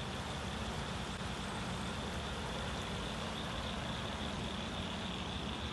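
Steady, even rushing of a flowing creek, with a thin, steady high tone over it.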